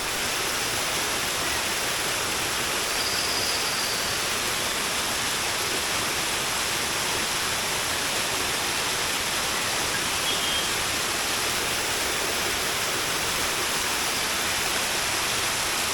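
Waterfall and fast-flowing mountain stream: a steady, even rush of falling water.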